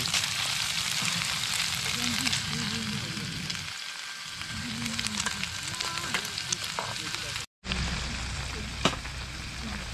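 Tofu slices frying in hot oil in a frying pan, a steady sizzle with small pops and crackles. It cuts out for a moment about three-quarters of the way through, then the sizzle carries on.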